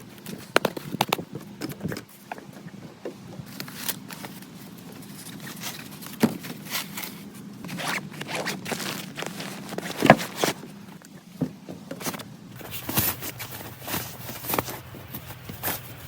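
Irregular rustling and scraping of things being handled, broken by short sharp clicks and knocks; the loudest knock comes about two-thirds of the way through.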